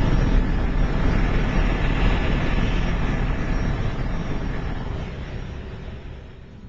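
Engine of a powered craft running steadily under a loud rushing noise, fading away over the last two seconds.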